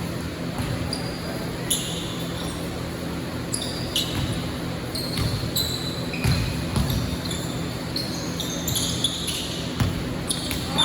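Basketball bouncing on an indoor court in several irregular thuds, with short high squeaks scattered between them.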